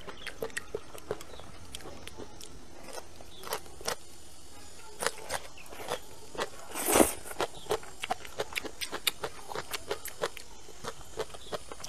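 Close-miked chewing and crunching of dry-fried green beans and chilies, with many small crisp clicks throughout. A louder slurp about seven seconds in, as a bunch of beans is sucked into the mouth.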